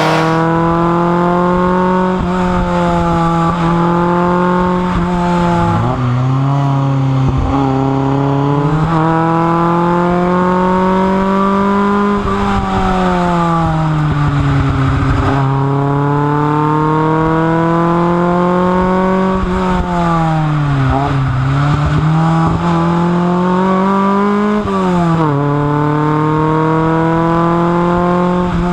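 Fiat 131 Abarth Rally's two-litre twin-cam four-cylinder engine under load, its note climbing with revs and dropping at gear changes. It drops sharply after about six seconds and again near the end, and falls off twice in between as the driver lifts off before pulling again.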